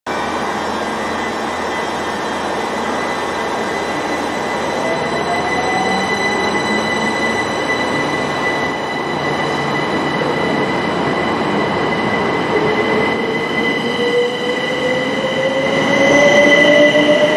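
Electric passenger trains running past along a station platform, with a steady high whine throughout. From about twelve seconds in, a lower whine rises steadily in pitch and the sound grows louder.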